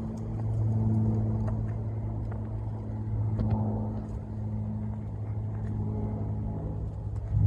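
A steady low engine hum with a few evenly spaced overtones, and a brief louder bump right at the end.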